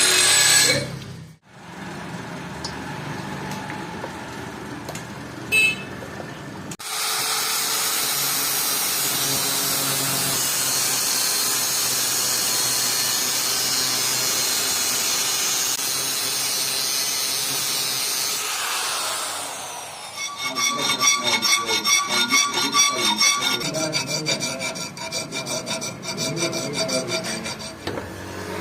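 Hand metalworking on a steel cleaver blade: a long steady abrasive hiss, then rapid repeated rasping strokes that leave the metal ringing.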